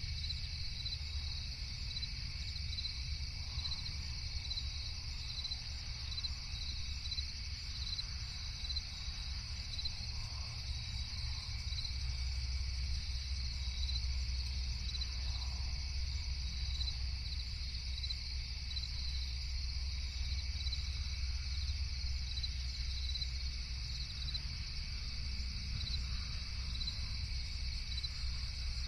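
Crickets chirping steadily in a continuous high-pitched chorus, with rapid regular pulses, over a steady low rumble.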